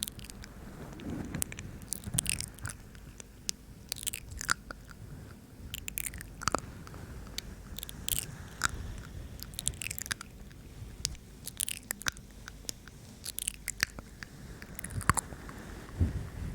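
Close-up ASMR mouth sounds: irregular wet lip smacks and tongue clicks about once or twice a second.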